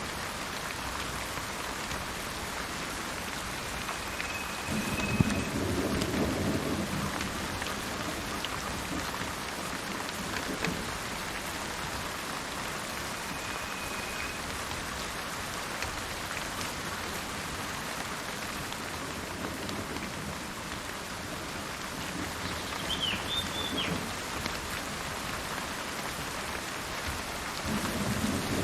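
Steady rain falling, with thunder rumbling about five seconds in, a fainter rumble a little past twenty seconds, and a louder one starting near the end. A bird gives a few short high calls through the rain.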